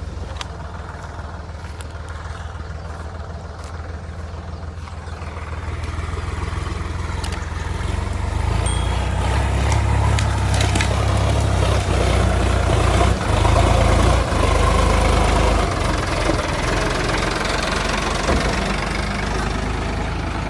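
Sonalika DI 50 RX tractor's diesel engine running, growing louder through the first half and easing off slightly near the end.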